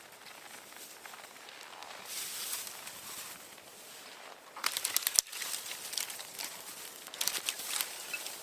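Crunching and rustling, with two short bursts of rapid sharp crackles, about halfway through and again near the end.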